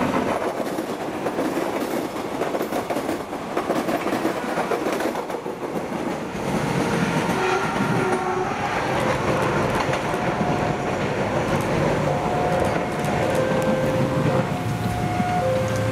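KRDI diesel multiple unit rolling past on the tracks, its wheels clattering over the rail joints. From about halfway through, a steady tone sounds over and over, switching back and forth between two pitches.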